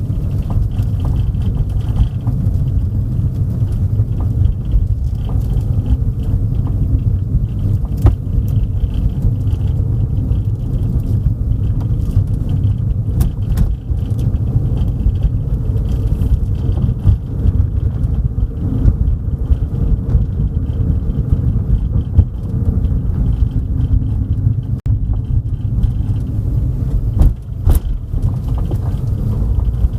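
Car driving along a road, heard from inside: a steady low rumble of road and engine noise, with a few short sharp knocks, the loudest near the end.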